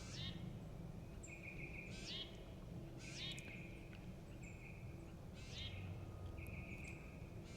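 A songbird singing the same short phrase over and over, a held buzzy high note and a quick swooping flourish, about every second or so, over a steady low background rumble.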